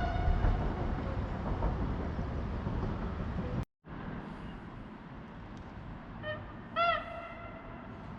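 Passing train's rumble slowly fading, cut off abruptly about three and a half seconds in. Then quieter outdoor background, broken near the end by two short calls whose pitch rises and falls, the second louder.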